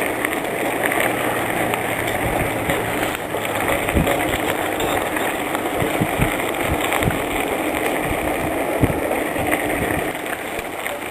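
Steady rolling noise of a bicycle being ridden along a trail, with occasional short low knocks.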